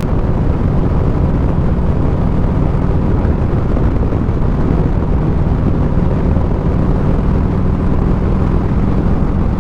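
Harley-Davidson V-twin motorcycle engine running steadily at cruising speed, with wind rushing past.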